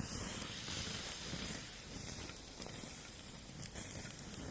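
Tea poured from a thermos onto hot campfire coals, hissing steadily as it turns to steam while the fire is doused.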